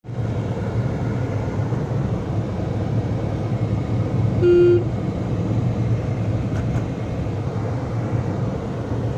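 Steady road and engine noise of a car driving, with one short horn toot about halfway through.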